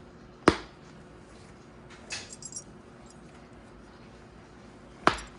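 Helmet cheek-pad snap clips popping loose: two sharp snaps, about half a second in and again near the end, with a few softer clicks in between.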